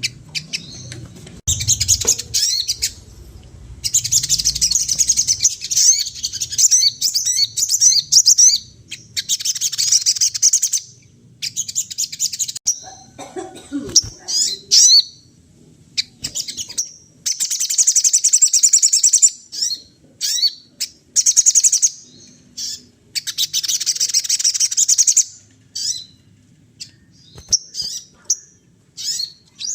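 A sogon songbird singing actively, in long runs of rapid, high chirping trills broken by short pauses, with one lower, falling call near the middle.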